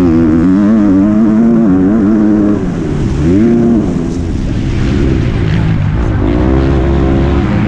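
MX2 motocross bike's engine revving up and down as the throttle is opened and closed, its pitch climbing sharply about three seconds in, dropping just before the middle, and climbing again near the end.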